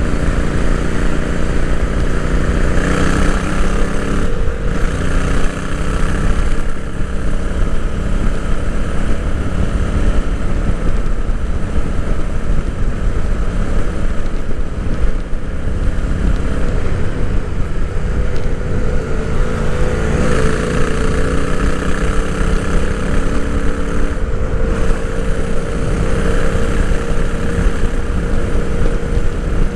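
Royal Enfield Interceptor 650's 648 cc parallel-twin engine running while being ridden, heard from onboard. Its pitch shifts a couple of times as the revs change, over a low rumble of wind on the microphone.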